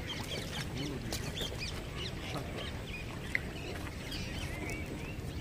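Birds calling: many short, high chirps scattered throughout, mixed with lower calls.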